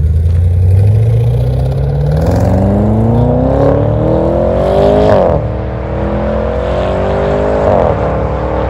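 Audi RS6 C8's twin-turbo V8 breathing through a TUBI STYLE exhaust, accelerating hard: the engine note climbs for about five seconds, drops sharply at an upshift, climbs again and drops at a second shift near the end.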